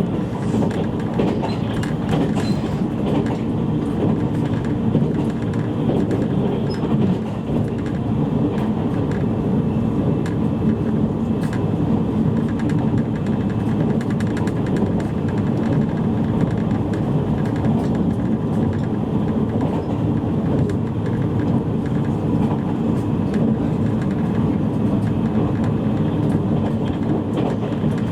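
Steady running noise of a JR East E653 series electric train, heard inside a motor car while it runs between stations: an even low rumble of wheels on rail with faint clicks.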